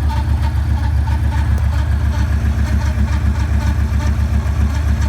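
2009 Yamaha Raider's air-cooled V-twin idling steadily with a pulsing low rumble and faint, evenly repeated ticking: the strange noise the owner cannot identify.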